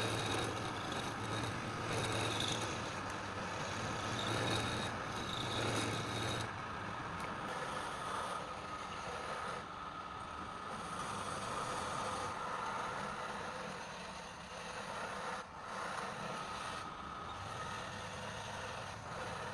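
Wood lathe running, with a turning tool scraping against the spinning wood. The steady hum and cutting noise change in character about six seconds in.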